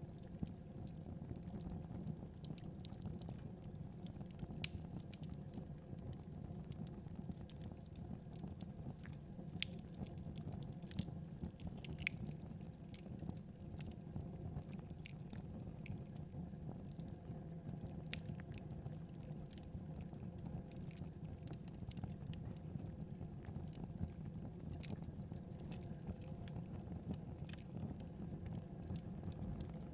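Wood fire crackling in a fireplace: irregular sharp pops and snaps scattered over a steady low rumble of the burning.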